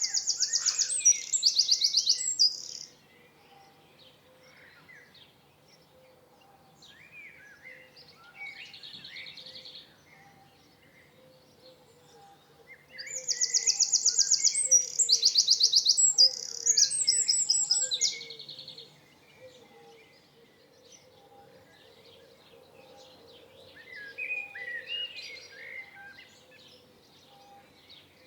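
Songbirds singing: two loud bouts of rapid, evenly repeated high notes, one at the start and another from about twelve seconds in, with quieter chirps from other birds in between. A faint steady hum runs underneath.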